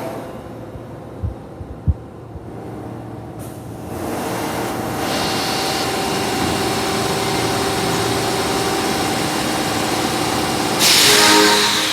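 Osaka Metro Tanimachi Line 22-series subway train: a couple of light knocks, then a steady running hum with held tones from about four seconds in. Near the end comes a short, loud hissing blast with several tones together, the train's air horn with its abnormal, distorted sound.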